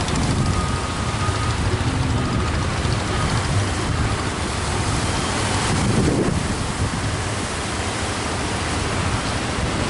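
Strong wind buffeting the microphone over a steady wash of sea surf.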